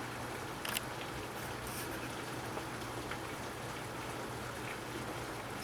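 Torrential rain pouring down, a steady even hiss heard from indoors through a window.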